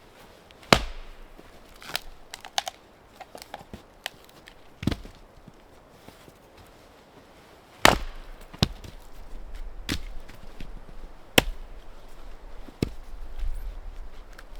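Wood being chopped: irregular sharp strikes, the loudest about a second in, near eight seconds and after eleven seconds, with lighter knocks and small clicks between.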